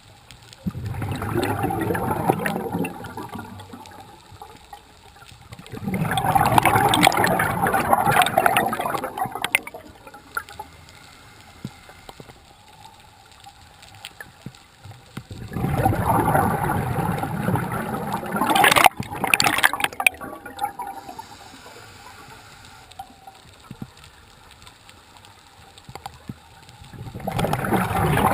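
Scuba diver's exhaled bubbles rushing and gurgling from the regulator underwater, in four bursts of a few seconds each, with quieter stretches between breaths.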